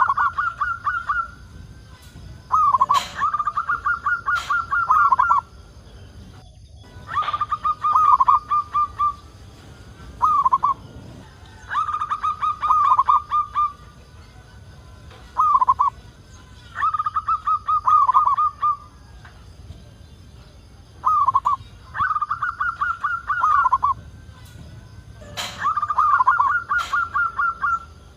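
Zebra dove (perkutut) singing, repeating its song every few seconds. Each phrase is a lead note followed by a fast, stuttering string of short cooing notes; some phrases are only a single short note.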